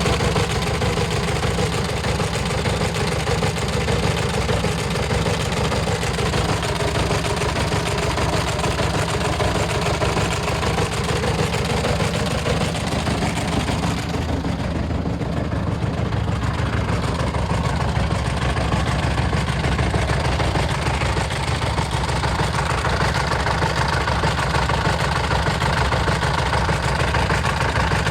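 MAZ-4370 truck's D-245.12S four-cylinder turbodiesel running steadily, with a knock that its owners cannot place.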